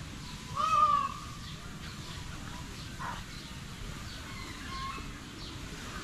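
A bird's loud, meow-like call, once, about half a second in: it slides up, holds and trails off. Fainter chirps from other birds follow.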